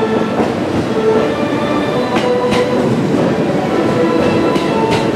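JR East E657 series electric train rolling into the platform: a steady rumble of wheels on rail, with several sharp clacks as the wheels cross rail joints.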